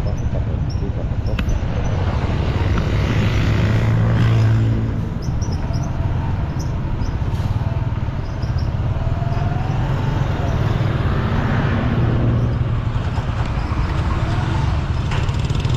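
Road traffic with a steady low rumble of running vehicle engines, swelling as an engine passes about four seconds in and again near eleven seconds in.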